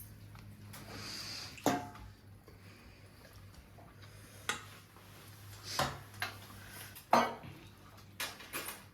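Cutlery clinking against plates and dishes during a meal: about seven separate sharp clinks at irregular intervals, over a low steady hum.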